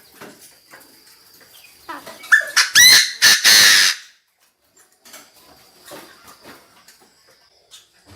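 Chinese francolin calling: one loud, harsh call about two seconds in, a run of rising notes that ends in a grating stretch, lasting under two seconds, with faint clicks and rustles around it.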